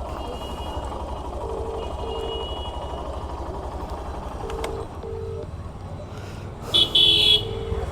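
Phone ringback tone of an outgoing call: a double ring repeating about every three seconds, over a steady low rumble. A brief, loud, high-pitched beep sounds about seven seconds in.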